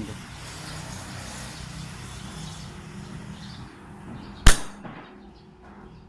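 A single sharp pneumatic shot about four and a half seconds in: the solenoid valve of a high-pressure air (HPA) system for an airsoft gun firing once, releasing air regulated to about 90 psi.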